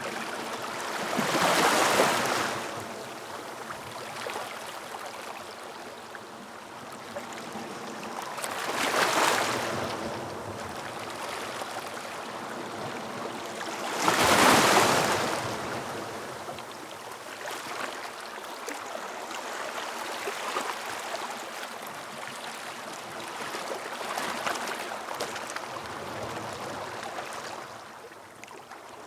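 Ocean waves breaking on a beach: three louder surges of surf about 2, 9 and 14 seconds in, with a steady wash of water between them.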